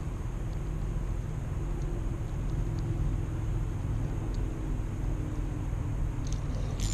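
Steady low outdoor rumble with no distinct events, only a few faint scattered ticks.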